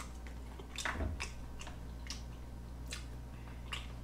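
A person chewing sushi close to the microphone: faint, irregular wet mouth clicks, about half a dozen.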